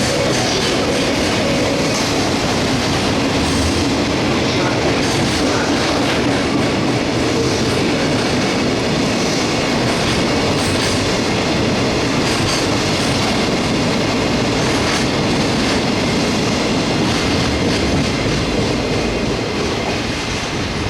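A train running on the rails with a steady, loud rumble, its wheels clicking over rail joints.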